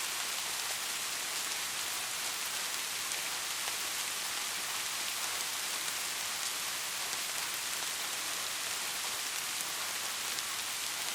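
Steady rain falling, an even hiss of many small drop hits with no thunder.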